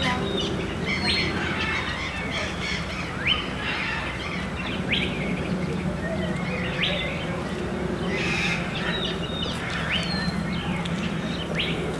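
Birds chirping outdoors, short sharp calls every second or two, over a steady low hum.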